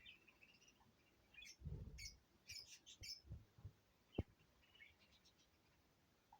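Faint parrot chirps and short squeaks in a quick cluster from about a second and a half to three seconds in, among soft low bumps, with one sharp click about four seconds in.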